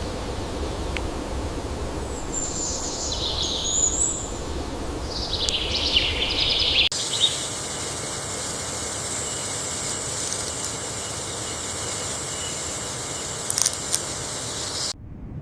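Outdoor natural ambience with birds chirping in the first half. About seven seconds in the background changes suddenly to a steady high hiss, with a few short clicks near the end.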